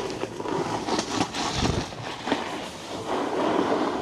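Snowboard sliding over hard-packed snow, the base and edges scraping with a steady rattling chatter and scattered sharp clicks.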